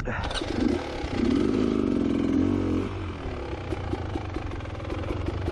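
Two-stroke engine of a 2022 Beta Xtrainer 300 dirt bike taking throttle: its pitch climbs for about two seconds from about a second in, then eases back, with small clicks and clatter over it.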